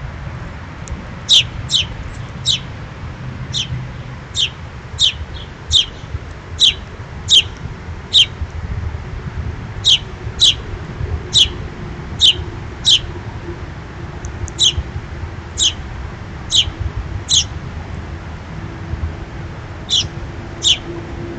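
A small songbird giving short, sharp, high chirps, one or two a second in irregular runs with a brief pause near the end, over a steady low rumble.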